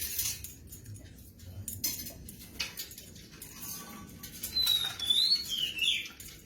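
Iris lorikeet giving a short, squeaky whistled call about four and a half seconds in; its pitch wavers, then drops. Before it come scattered light clicks and scratches.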